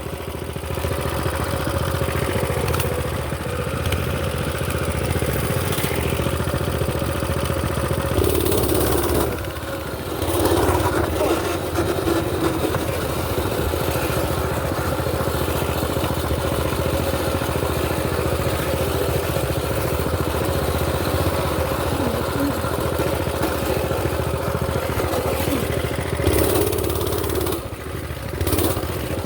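Small mini bike engine running steadily, with two brief louder rushes of noise about eight and twenty-six seconds in.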